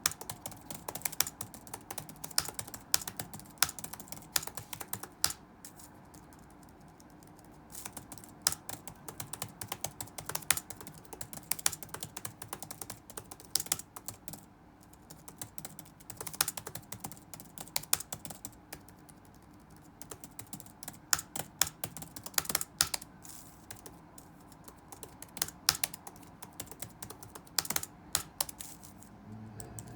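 Touch-typing on a computer keyboard: quick runs of keystrokes broken by short pauses, with some keys struck noticeably harder than the rest, over a faint steady hum.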